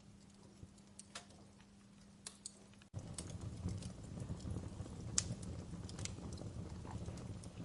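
Wood fire crackling, with scattered sharp pops and snaps. About three seconds in the sound cuts abruptly to a louder stretch with a low rumble of flames under the crackle.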